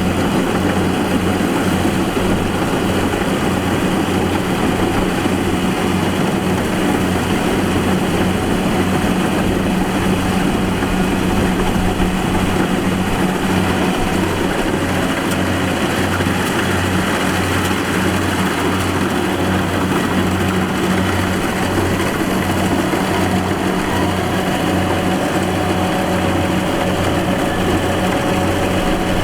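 The engine of a rice harvesting machine running steadily, with a deep hum and an even low pulsing throb beneath the mechanical clatter.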